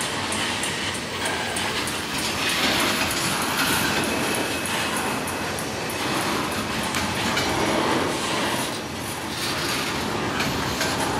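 A train rolling past on the rails, a steady wheel-on-rail noise with repeated clicks.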